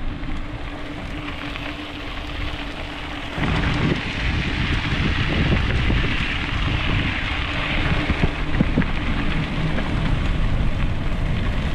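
Wind rumbling on the microphone and tyre noise from a moving electric bike, with a steady low hum, getting louder about three and a half seconds in.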